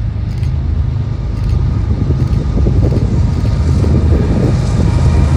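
A passing train makes a deep, steady rumble that grows slightly louder, with a rough crackling over it in the middle seconds.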